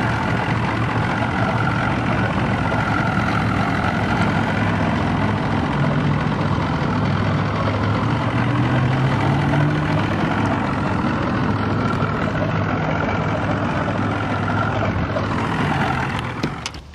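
Bass boat's outboard motor running steadily with a loud, even noise; it drops away near the end.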